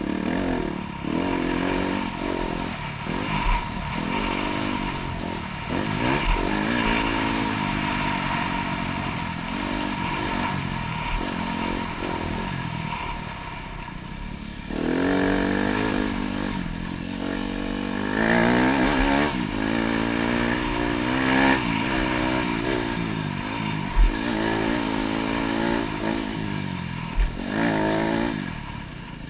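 Dirt bike engine revving up and falling back again and again as the throttle is opened and closed around a motocross track, with two sharp thumps near the end.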